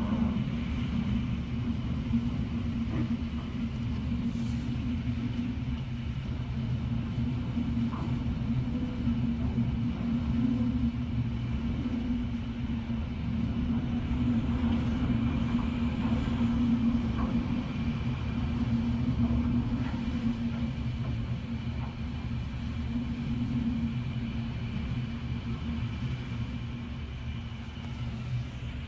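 Hurricane-force wind: a steady low rumble with a constant hum in it and no let-up.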